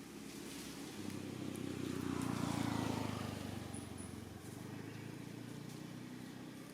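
A motor vehicle passing by, its engine and tyre noise growing louder to a peak about two and a half seconds in, then fading away.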